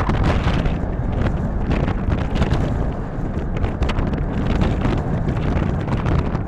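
Wind buffeting the microphone: a steady, loud low rumble with scattered crackles.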